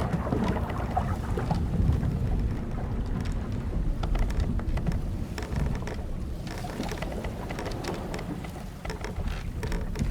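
Old wooden sailing ship at sea: a steady low rumble of wind and waves, with scattered small clicks and ticks from the hull timbers and rigging.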